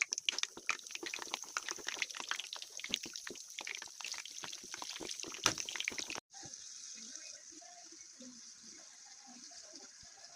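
Breaded chicken cordon bleu frying in hot oil: a dense crackling sizzle that breaks off about six seconds in and comes back as a steadier, quieter sizzle.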